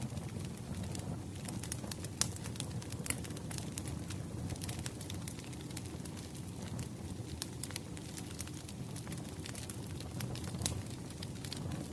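Firewood burning with a steady low rush and frequent sharp crackles and pops scattered irregularly throughout.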